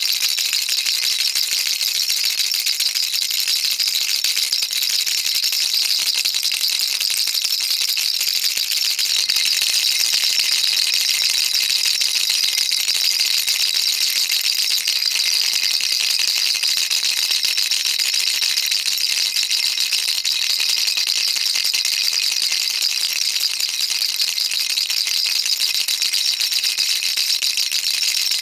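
Baby rattle shaken steadily and without pause, a dense, even rattling of many small beads, high and bright.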